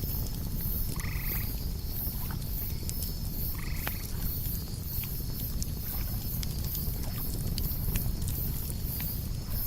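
Campfire crackling with a low rumble under a night insect chorus: a steady high trill and a very high pulsing chirp about twice a second. Two short calls from a night animal sound about a second and three and a half seconds in.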